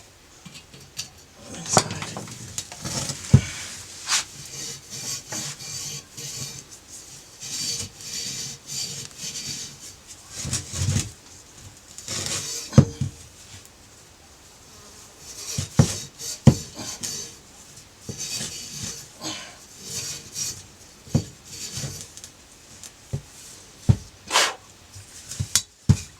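Metal hand tools and small engine parts clinking, tapping and scraping in irregular bursts, the sound of seal replacement work on a motorbike engine.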